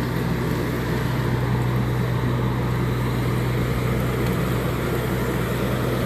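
Steady hum of a vehicle engine running, with a constant low drone and no change in pitch.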